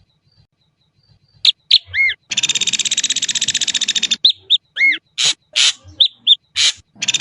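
Ashy drongo calling: after a quiet second or so, a few short sharp notes and arched whistles, then a long, rapid, buzzing rattle of about two seconds. More whistled and harsh notes follow, and a second rattle begins near the end.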